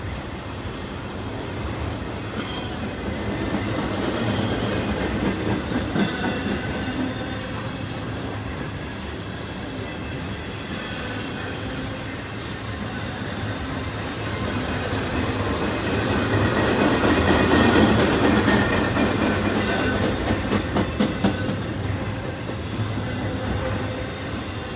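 Intermodal freight train's trailer-carrying flatcars rolling past: a continuous rumble of steel wheels on rail with clicks over the rail joints, swelling louder twice as groups of cars go by.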